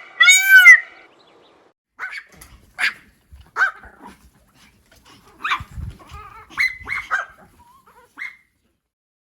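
A dog barking in short, sharp barks, about eight of them at uneven intervals. Just before them, a loud, pitched honking call ends a run of such calls.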